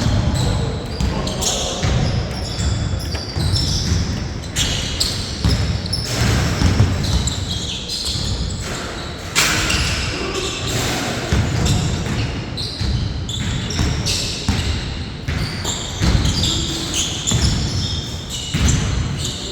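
Basketball bouncing on a court during play: many irregular thuds of the ball being dribbled and hitting the floor.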